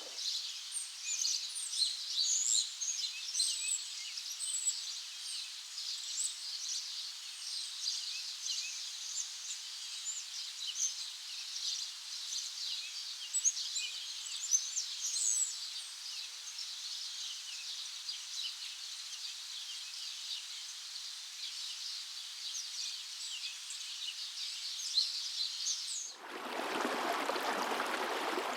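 Rainforest ambience: a dense chorus of many small birds chirping and calling in a high register. About 26 seconds in it cuts abruptly to the steady rush of flowing water.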